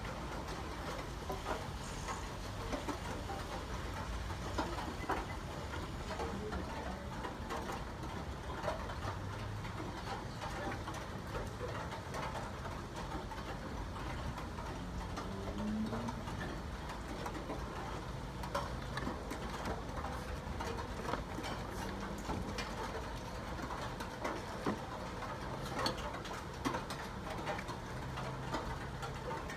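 Steady rain falling, a constant hiss made of many small drop ticks, with a faint low hum underneath.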